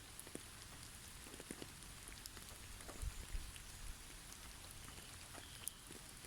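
Snow falling on snow-covered forest trees: a soft, steady patter with many scattered light ticks, much like light rain. A couple of soft low thumps come about halfway through.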